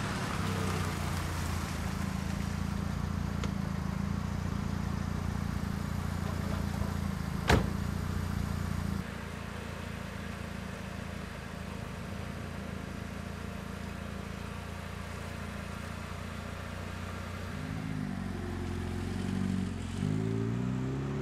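Car engine running steadily at idle, with one sharp knock about seven and a half seconds in; near the end the engine pitch rises and wavers as it revs.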